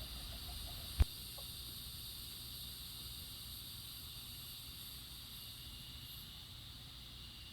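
Steady, high-pitched evening insect chorus, a constant hiss-like trilling, with a single sharp knock about a second in.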